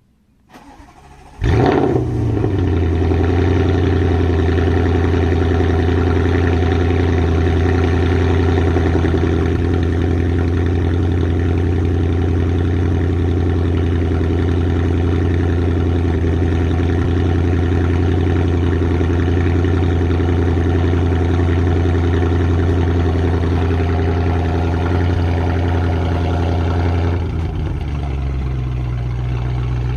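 Audi RS7's 4.0-litre twin-turbo V8 starting up with a short flare of revs, then holding a steady fast idle. The idle drops to a lower, settled speed near the end.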